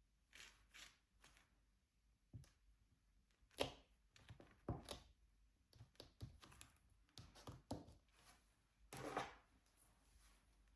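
Soft, irregular taps and clicks of diamond painting: a drill pen picking up resin drills from a tray and pressing them onto the adhesive canvas, with a longer scratchy rattle about nine seconds in.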